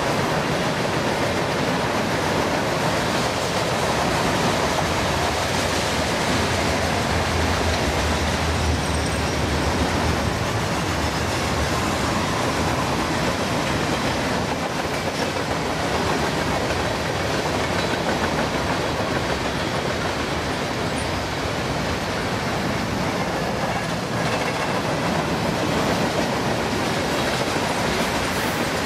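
Freight cars of a mixed freight train rolling past, their steel wheels running on the rails with a steady, even noise.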